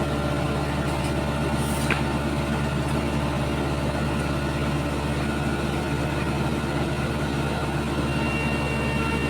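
Heavy road-paving machinery engine running steadily at a constant pitch, with faint high whistling tones coming in near the end.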